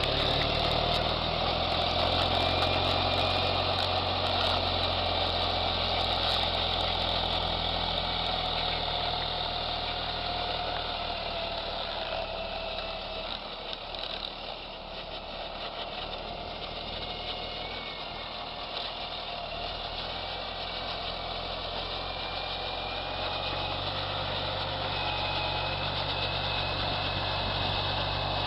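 A large vehicle engine running steadily, with a wavering whine over it; it eases off around the middle and picks up again near the end.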